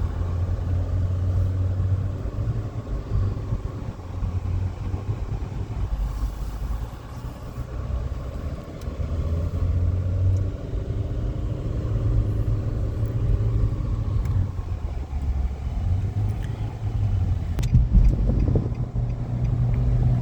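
A car driving, with a steady low rumble of engine and road noise. The engine note rises and falls gently with speed.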